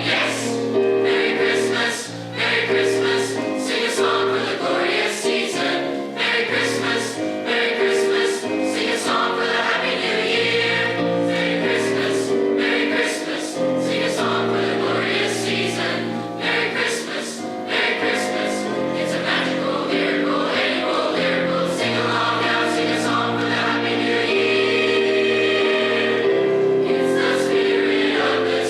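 High school choir singing, several voice parts holding chords together with crisp consonants.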